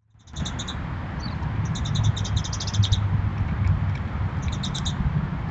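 A bird's rapid high trills in three short runs of evenly spaced chirps, over a steady low rumble.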